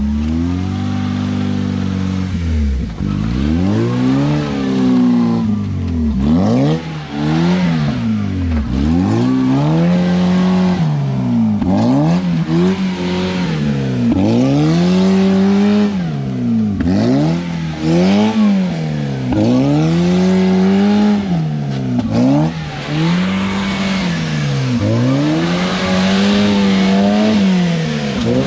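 A UAZ off-road vehicle's engine revving up and down over and over, about once every two seconds, its pitch rising and then dropping sharply each time.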